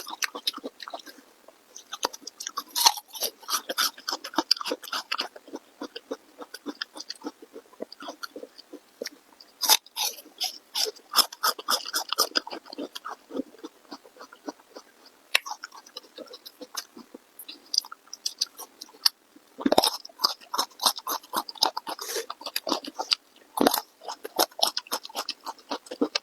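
A person chewing and biting food close to the microphone: a dense run of quick mouth clicks, with a few louder sharp clicks scattered through.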